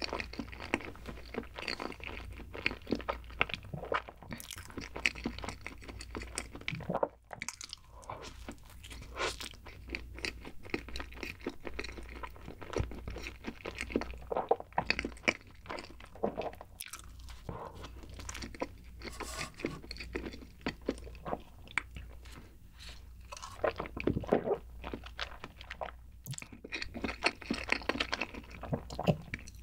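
Close-miked chewing of a bite of white-bread sandwich: irregular wet mouth clicks and crunches, over a steady low hum.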